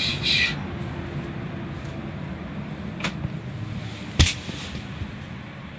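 Steady rumble of an automatic car wash, with a brief hiss at the start, a faint click about three seconds in and a single sharp knock a second later.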